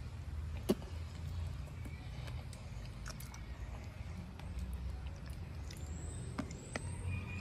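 Jabuticaba fruit being chewed, with soft wet mouth clicks and one sharp click about a second in, over a steady low rumble.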